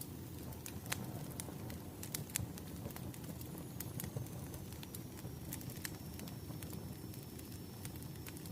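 Wood fire crackling: a steady low rumble of burning logs with frequent sharp, irregular pops. A faint, high, thin tone comes in about halfway through and holds.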